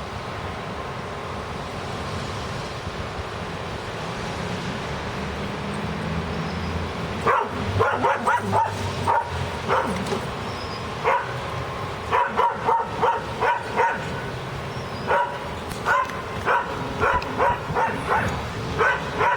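A dog barking, many short barks in quick runs starting about a third of the way in, over a steady wash of wind noise.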